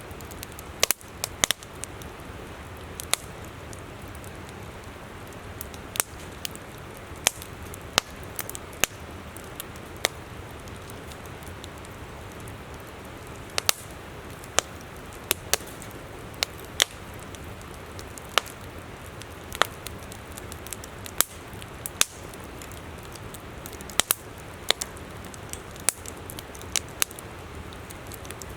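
Campfire crackling with sharp, irregular pops, roughly one a second, over the steady rush of a flowing river.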